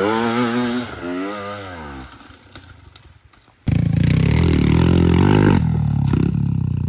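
Small off-road vehicle engine revving up and down, then fading away. After a brief lull, an engine is suddenly loud and close, running steadily.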